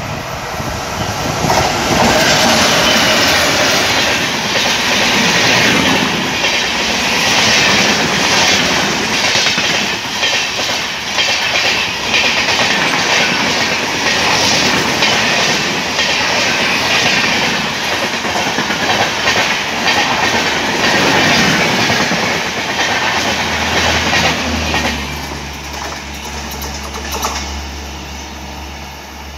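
Diesel-hauled Indian Railways express coaches passing close at speed: a loud rushing rumble with rapid, rhythmic wheel clatter over the rail joints. Near the end the clatter fades as the last coach goes by, leaving a steady low hum.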